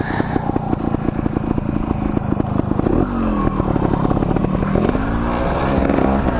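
Two-stroke trials motorcycle engine running at low revs with a rapid, steady firing beat, its pitch rising and falling a couple of times with the throttle, about three and five seconds in. It is on a 50:1 premix that the owner says runs rich.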